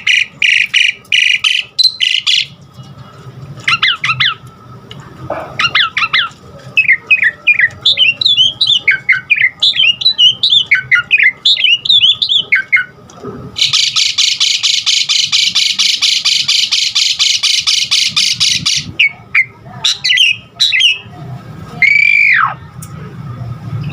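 Pied starling (jalak suren) singing a varied song: harsh squawks, a run of quick chattering notes, a long buzzing rattle of about five seconds, and a falling whistled note near the end.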